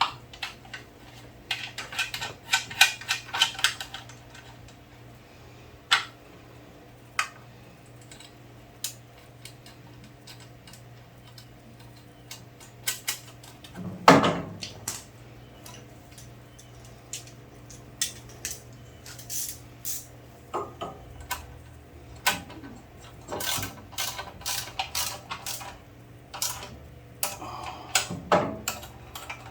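Small metal parts and hand tools clinking and tapping in irregular clusters while a generator engine's carburetor parts are fitted back by hand, with one heavier clunk about halfway through. A steady low hum runs underneath.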